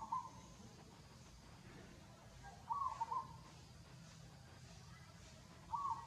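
A bird calling: a short call of a couple of quick notes, repeated about every three seconds.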